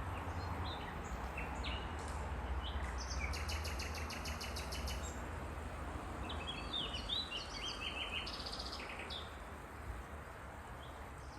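Nightingale singing: a run of rapidly repeated high notes about three seconds in, then varied quick phrases and trills past the middle, over a steady low background rumble.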